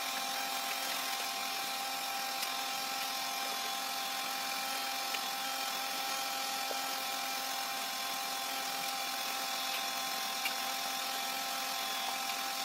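Steady hiss of air in a paint spray booth, with a constant high hum under it and a few faint ticks.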